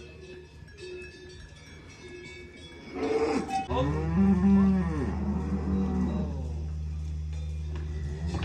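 Faint cowbells clinking, then a cow moos loudly about three seconds in: one long call that rises and falls in pitch, leaving a steady low drone afterwards.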